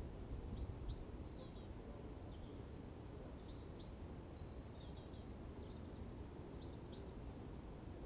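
Faint bird calls: three brief pairs of high chirps about three seconds apart, over low steady background noise.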